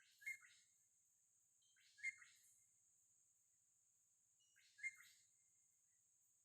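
A bird calling faintly in the background: three short chirps a couple of seconds apart, over a faint steady high hiss.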